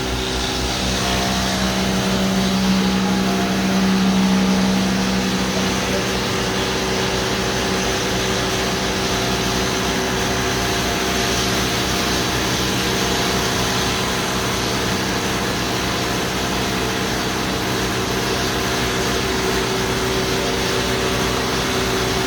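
Woodworking planer running steadily as it makes passes over a wood slab, a constant machine hum with a heavier low drone from about a second in to about six seconds.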